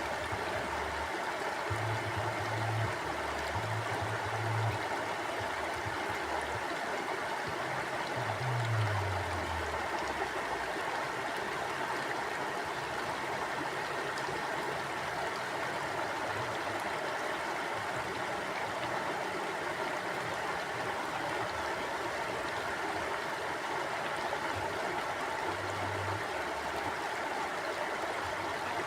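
Mountain stream flowing steadily over rocks, an even rushing of water with a few brief low rumbles beneath it.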